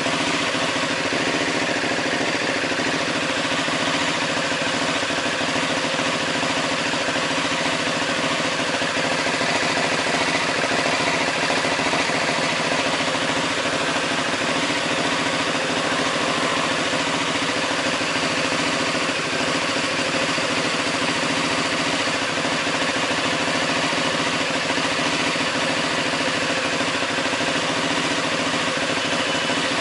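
Ducati Hypermotard 939's 937 cc L-twin engine, breathing through an Akrapovic exhaust, running steadily at an even engine speed with no revving.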